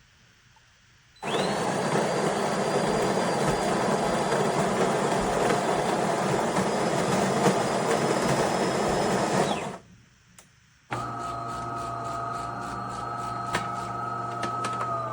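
De'Longhi Magnifica Start bean-to-cup espresso machine: the built-in grinder grinds beans for about eight seconds and stops. After a brief pause the pump starts humming steadily as it begins brewing.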